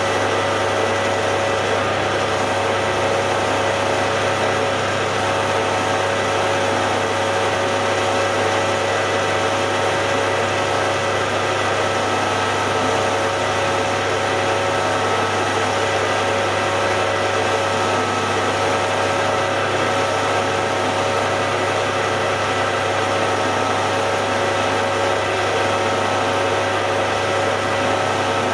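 Hare and Forbes AL335 metal lathe running steadily, a constant hum with several whining tones from its motor and gearing.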